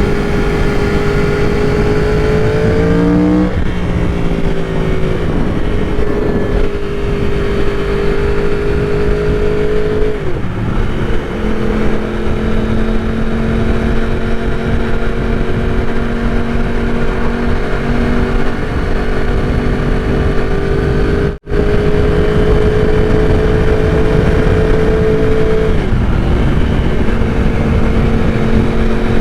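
Yamaha R1 inline-four sport bike engine running at steady high revs under heavy wind rush on the microphone. The pitch climbs and then drops about three seconds in, and dips and recovers a couple more times later.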